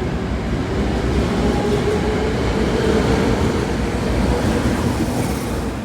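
Osaka Metro subway train running at a station platform: a loud, steady rumble of wheels on rail with a faint motor tone that rises slightly in pitch.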